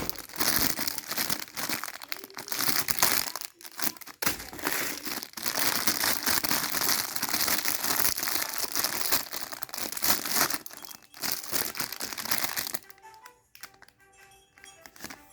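Crinkling of plastic wrapping being handled, over background music. The crinkling stops about 13 seconds in, leaving only the music.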